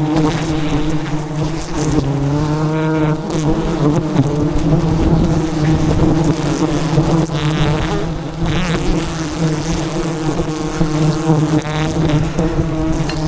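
Swarm of giant honey bees (Apis dorsata) buzzing loudly around a hive being cut, a steady drone. Now and then a higher whine bends in pitch, about three times.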